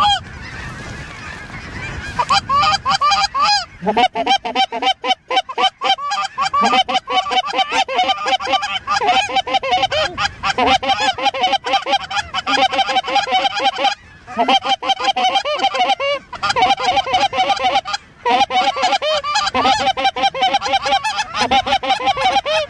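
Many geese honking at once in a dense, unbroken chorus of rapid overlapping calls. In the first couple of seconds there are fewer calls over a hissing noise; after that the honking fills the rest.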